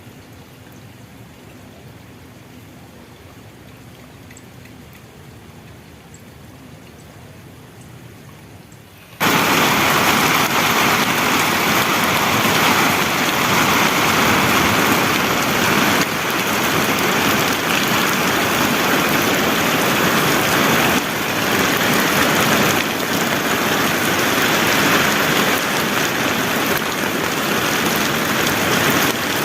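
Heavy rain falling steadily, cutting in suddenly about nine seconds in after a quiet stretch of faint background.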